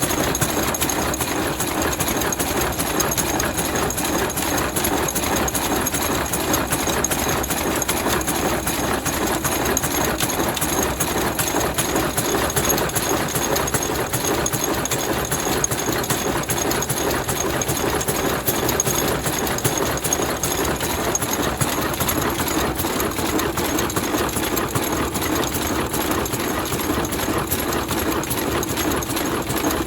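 Vintage Ruston stationary diesel engine running steadily, with a rapid, even mechanical clatter.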